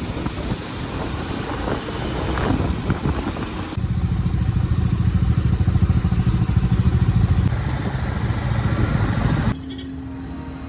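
Motorcycle engine running on the move, first under an even rushing noise, then from about four seconds in louder with a steady pulsing engine note; it cuts off suddenly near the end.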